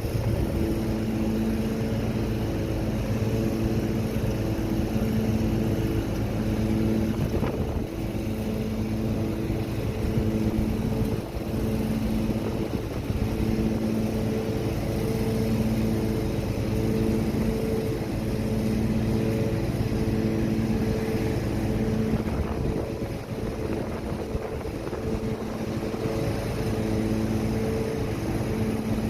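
A steady, motor-like pitched hum that swells and fades about once a second, over a constant rush of wind and surf noise.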